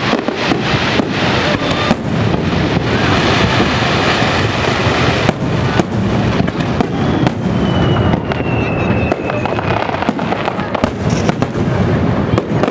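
Aerial fireworks bursting in rapid succession: a dense barrage of bangs over continuous crackling. In the middle comes a long whistle that falls slightly in pitch.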